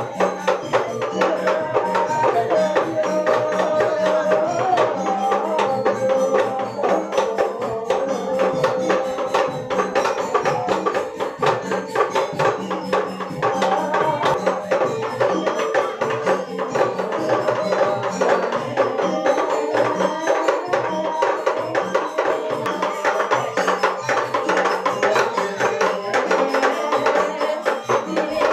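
Balinese gamelan music: fast, dense metallic percussion over held melodic tones.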